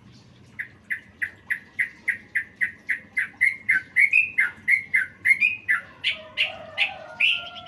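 A songbird singing a fast run of short, sharp chirps, about three and a half a second, creeping slightly higher in pitch. It ends with a few louder, higher notes over a lower warble.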